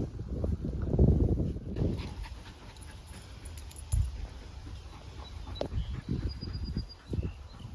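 A dog making short, irregular sounds close by, busiest in the first two seconds and then sparser.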